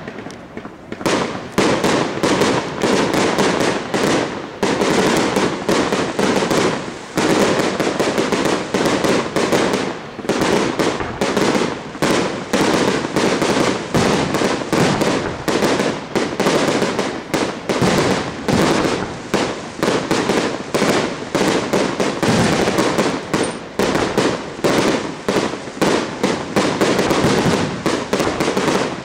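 Aerial fireworks bursting in a dense barrage of sharp bangs, several a second, without a pause.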